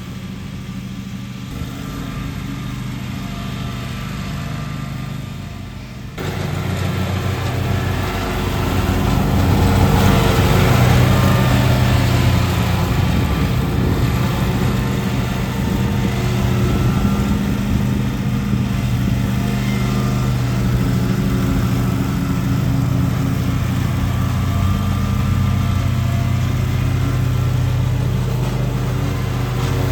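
Gasoline lawn mower engine running steadily under load, turning up noticeably louder about six seconds in.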